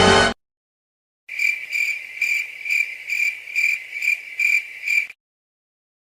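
Cricket chirping sound effect: a high, even chirp repeating about twice a second for nearly four seconds, the stock 'crickets' gag for an awkward silence. It is preceded by the last moment of a music clip cutting off.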